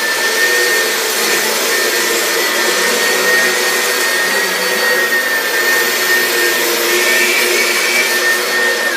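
Vacuum cleaner running steadily: a rush of air under a high motor whine. It is switched off at the very end, and the whine starts to wind down.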